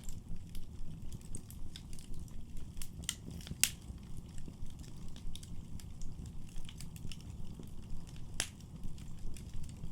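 Wood fire burning in a fireplace: a steady low rumble with irregular crackles and pops, two sharp pops standing out at about three and a half seconds and eight and a half seconds in.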